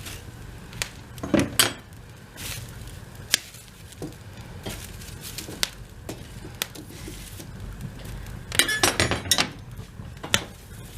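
Sharp metallic clinks and knocks from tending a wood fireplace, scattered through, with a busier run of them about a second and a half in and another around nine seconds in.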